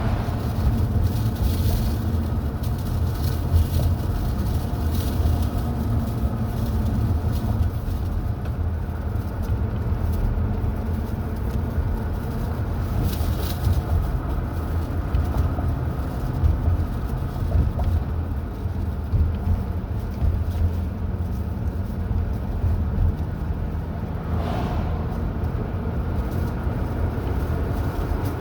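A car driving along a highway: a steady low rumble of engine and tyres on the road.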